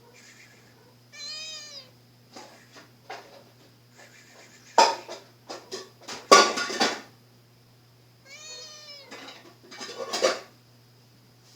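A domestic cat meowing twice, each a drawn-out call rising and falling in pitch. Between and after the meows come loud clattering knocks in clusters, louder than the meows.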